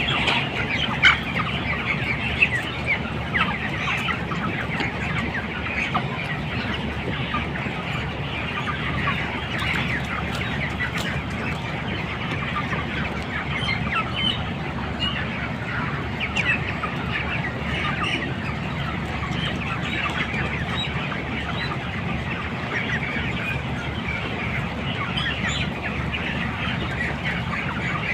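A flock of 24-day-old chickens in a poultry shed, many birds cheeping and clucking at once in a dense, continuous chatter over a steady low hum.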